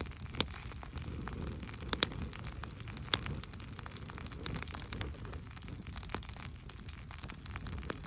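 Wood campfire crackling, with sharp pops every second or so, the loudest about two and three seconds in, over a steady low rushing.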